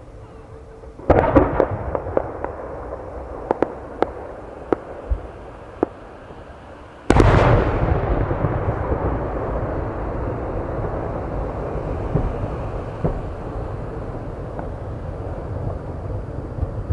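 Large 10-gō aerial firework shells bursting. A bang about a second in is followed by a few seconds of scattered sharp cracks. A much louder boom about seven seconds in rumbles and slowly fades.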